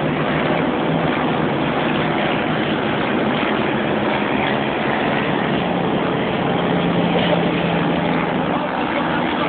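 Many racing quad bike and sidecar outfit engines running together, a dense, steady engine noise with no single machine standing out, swelling slightly about seven seconds in.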